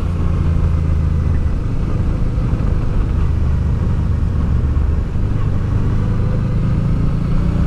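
Honda Deauville motorcycle's V-twin engine running steadily on the move, a low even drone with a steady hiss over it.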